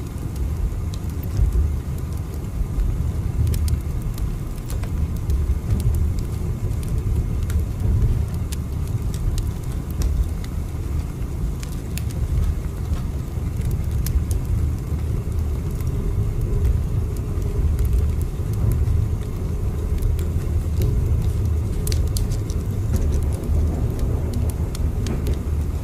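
Moving train heard as a steady low rumble, with scattered faint clicks over it.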